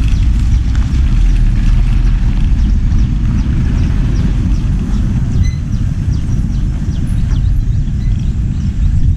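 Steady low rumble of wind buffeting the microphone while riding along a road, with light scattered clicks and rattles.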